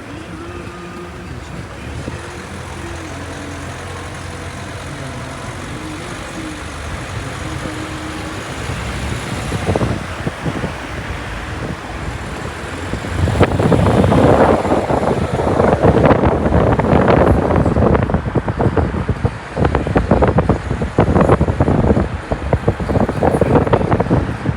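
Steady hum of a vehicle engine with traffic noise. About halfway through it gives way to louder, choppy, irregular noise.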